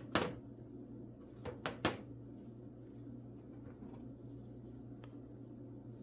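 Handling noise of hard objects: a few sharp clicks and knocks in the first two seconds, then only a steady low hum.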